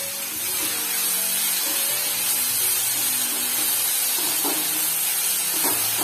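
Julienned potatoes sizzling steadily in hot oil in a nonstick kadai as they are stirred.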